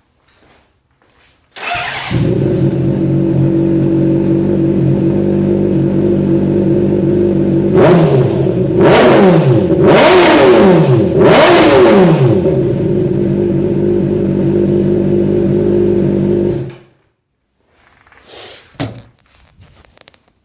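2008 Honda CBR600RR's inline-four engine through a Hyperflo aftermarket exhaust starting up about two seconds in and idling steadily. It is revved in several quick throttle blips in the middle, then shut off abruptly.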